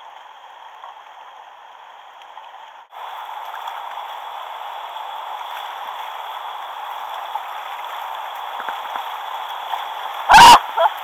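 River water rushing steadily around a kayak, getting louder about three seconds in. A sudden very loud burst comes near the end, with a smaller one just after.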